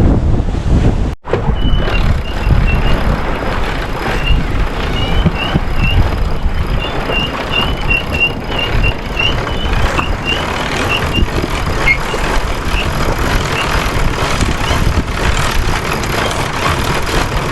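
Wind noise and rushing water aboard a sailing boat. After a cut about a second in, a string of short, high chirps repeats irregularly for about ten seconds over the steady noise.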